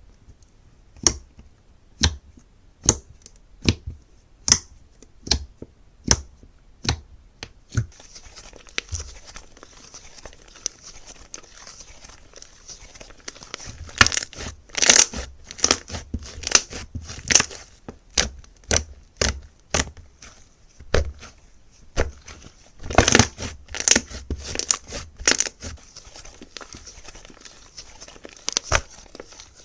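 Slime being handled: a row of sharp pops or clicks about once a second, then denser crackling and crinkling in two busier bursts.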